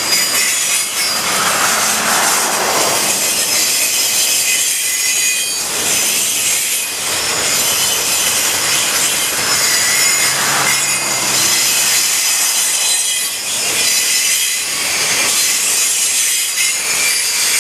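Freight train boxcars rolling past close by: steel wheels on the rails making a loud, steady rumble and clatter, with a high-pitched wheel squeal over it and the noise swelling every few seconds as the cars go by.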